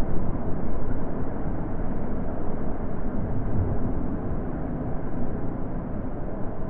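Wind blowing steadily as a low, even rush that swells and eases a little.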